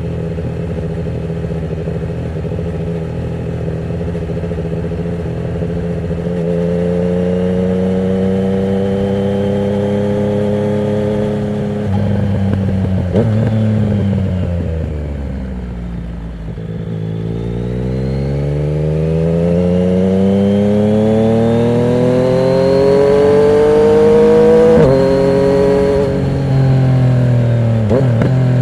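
Yamaha MT-09's three-cylinder engine running through a Termignoni exhaust with the dB killer removed, under way on the road. It holds steady revs, the revs fall away about halfway through, then it pulls with revs climbing for several seconds before a quick drop at a gear change near the end.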